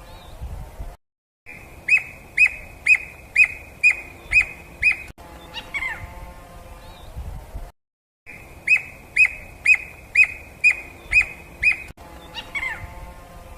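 A wild bird singing: a run of about seven sharp whistled notes, about two a second, followed by a few quick falling notes. The same phrase comes twice, with short dead-silent cuts between recordings.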